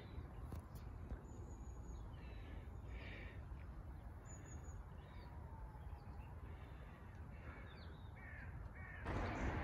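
A bird calling several times with short calls over a low steady rumble; a louder steady hiss comes in near the end.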